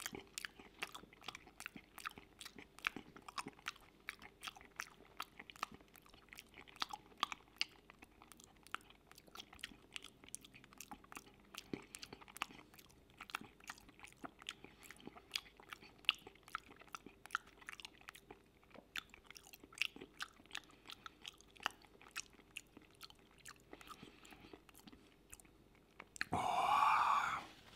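Close-miked chewing of creamy mushroom pasta: soft, wet mouth clicks and smacks, irregular, several a second. Near the end a louder sound lasting about a second breaks in.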